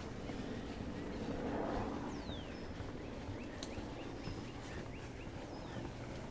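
Wild birds calling: two thin, falling whistles and, in the middle, a run of about half a dozen short repeated chirps, over steady low background noise.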